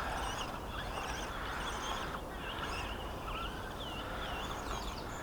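Small RC short course truck's brushed 370 electric motor whining up and down in pitch as the throttle is blipped, over a gritty hiss of tyres on loose ground.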